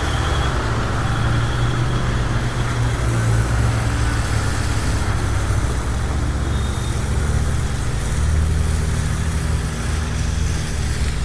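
High-pressure washer running steadily: a continuous low motor-pump hum under the hiss of the water jet.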